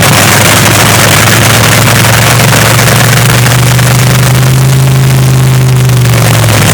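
Swamp Rat III, a front-engine nitro-burning dragster, cackling at a steady idle, very loud.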